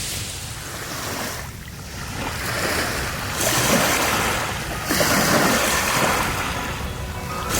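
Sea waves breaking and washing up a beach, coming in several surges, one after another. A steady low wind rumble on the microphone runs underneath.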